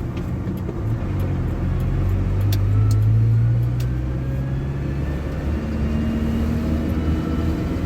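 ZMZ-405 four-cylinder petrol engine of a GAZ Gazelle van running while the van is driven. The engine note swells a little a couple of seconds in and then eases, with a faint rising whine above it and a few light ticks near the start.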